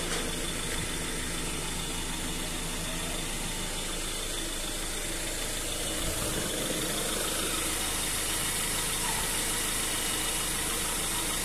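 Construction machine's engine running steadily at an even speed, with no change in pitch or load.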